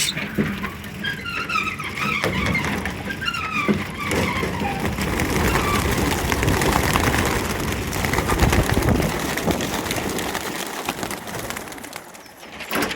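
A mass liberation of racing pigeons: a dense clatter of wingbeats as the flock takes off together, starting suddenly and thinning out near the end. Bird calls sound over it in the first few seconds.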